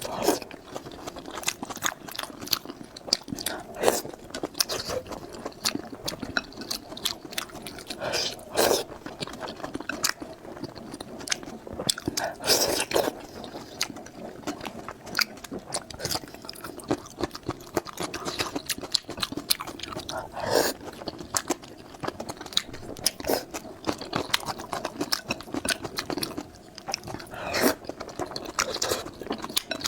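A person chewing and biting food close to the microphone: a steady run of small wet mouth clicks, with a louder burst every few seconds.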